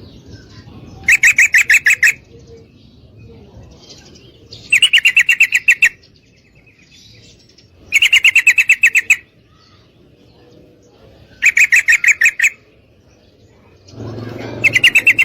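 Yellow-vented bulbul (trucukan), a female by the uploader's account, calling: five rapid runs of sharp, evenly repeated notes, each about a second long, coming every three to four seconds.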